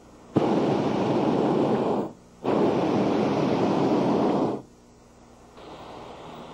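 Hot air balloon propane burner firing in two blasts of about two seconds each, with a short pause between, each starting abruptly with a loud whoosh and cutting off sharply.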